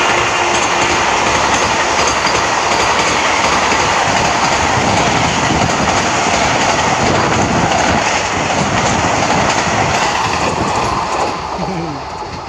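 Train 18, an engineless electric multiple-unit trainset, passing at about 160 km/h: a loud, steady rush of wheels on rails with clickety-clack from the rail joints, dropping away near the end as the last coaches go by.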